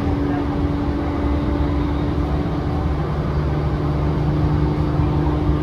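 Commuter train running at speed, heard from inside the passenger car: a steady rumble of wheels on rail with a constant electric motor hum. A second, lower hum joins about halfway through.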